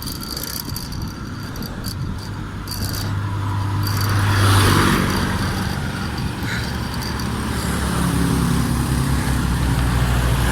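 Road traffic going past on the road: a motor vehicle's engine hum swells and passes, loudest about four and a half seconds in. Another engine builds toward the end.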